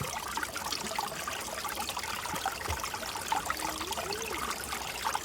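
Shallow creek water trickling and burbling over rocks, steady throughout.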